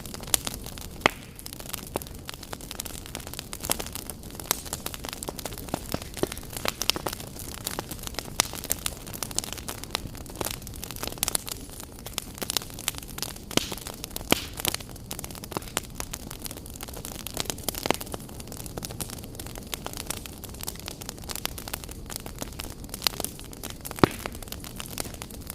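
Wood fire in a fireplace crackling, with irregular sharp pops and snaps over a steady hiss; one pop near the end stands out louder than the rest.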